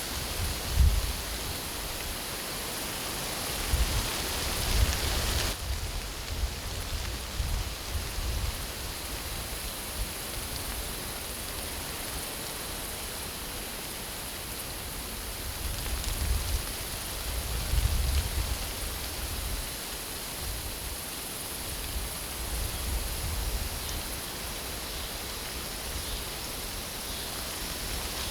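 Strong gusty wind buffeting the microphone, with irregular low rumbles every few seconds over a steady hiss.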